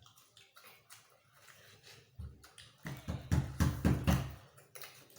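Scattered light clicks, then a cluster of loud, low thuds about three seconds in, lasting about a second and a half.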